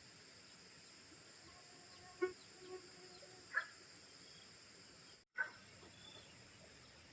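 A steady, high-pitched chorus of insects, with three short animal calls about two, three and a half and five and a half seconds in.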